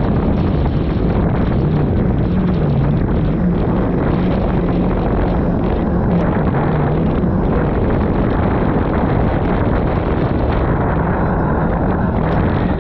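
Jet ski engine running steadily under way, its pitch wavering a little, with heavy wind rumble on the microphone.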